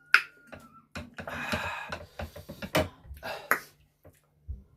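Close-miked eating sounds: wet mouth clicks and smacks while chewing spicy chicken feet, with a noisy sucking slurp about a second in.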